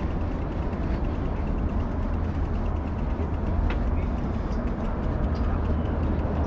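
Steady low wind rumble on the microphone of a camera riding along on a bicycle, with faint, quick, even ticking of the bicycle's freewheel as it coasts.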